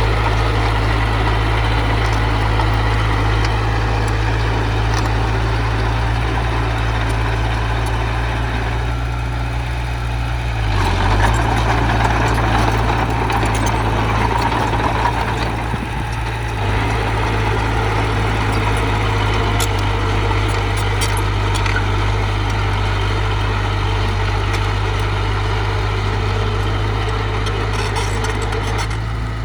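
Heavy diesel engine of earthmoving machinery running steadily, with a brief dip about 11 seconds in and louder grinding noise for a few seconds after it.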